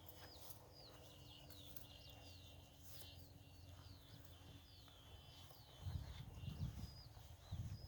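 Faint outdoor birdsong: small birds repeating short chirps that fall in pitch, several a second, over a faint steady high tone and low wind rumble. A few low thumps come in near the end.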